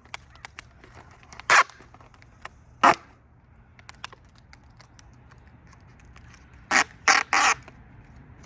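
Crow cawing: two single caws, then three in quick succession near the end, over a faint low hum.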